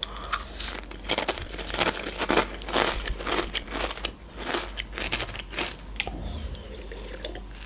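Close-miked crunching and chewing of ridged potato chips: a quick run of crisp crunches that thins out near the end.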